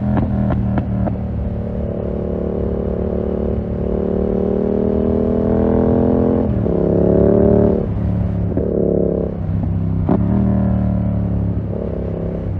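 Yamaha MT-07's parallel-twin engine through a full SC-Project 2-1 aftermarket exhaust, pulling steadily with the pitch rising, then revving up and dropping back twice with gear changes or throttle roll-offs before settling into a steady cruise. A few sharp cracks from the exhaust come near the start and about ten seconds in.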